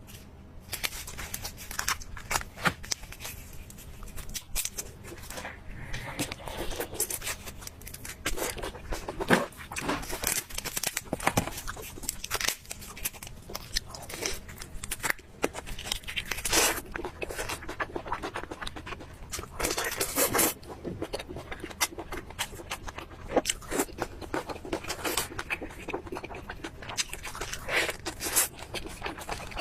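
Crunchy eating: irregular bites and chewing of crisp food, with crackles, crunches and scrapes coming close together, some louder than others.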